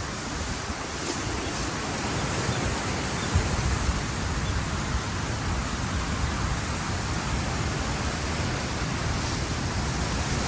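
Strong wind blowing over the microphone: a steady rushing noise with uneven low buffeting.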